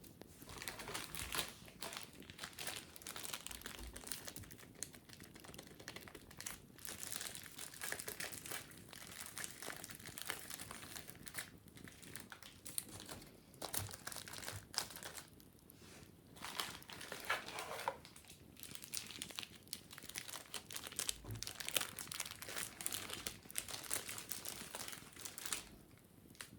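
Wicker basket being scratched and rubbed in cleaning: a dense, continuous run of dry, crackly scratching and rustling that starts about half a second in and stops shortly before the end.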